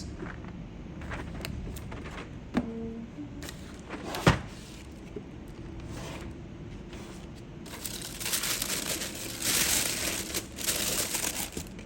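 Packaging of a keycap set being handled: a few sharp knocks, then crinkling of the wrapping for the last few seconds.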